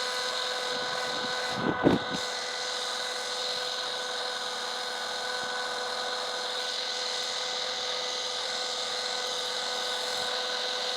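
Handheld electric stone polisher running steadily, wet-sanding a marble surface: a constant motor whine with one brief louder scuff about two seconds in.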